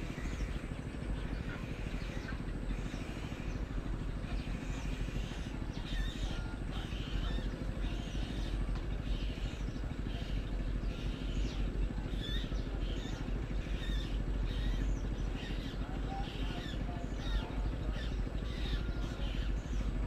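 Many short bird chirps and calls, scattered throughout, over a steady low rumble.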